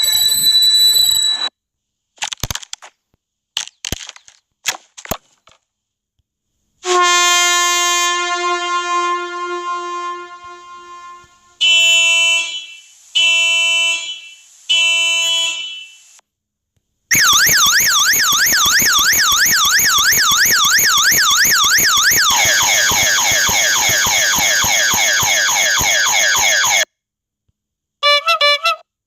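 A string of separate annoying sound effects: a few sharp clicks, a long horn-like note that fades away, three short horn honks, then a fast warbling electronic alarm tone that drops in pitch about halfway through and cuts off suddenly.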